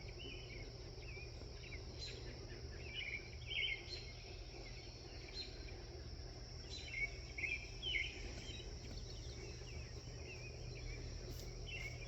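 Outdoor evening ambience: a steady, high insect drone throughout, with short bursts of bird chirps a few times, about 3 seconds in, around 7–8 seconds, and near the end.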